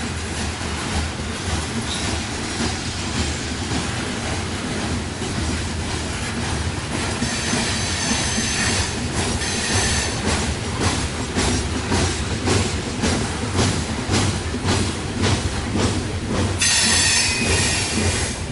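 Loaded coal train cars rolling past under a steady low rumble, the wheels clicking over rail joints at about two a second from some seven seconds in. High wheel squeal rises twice, briefly around the middle and again, loudest, near the end.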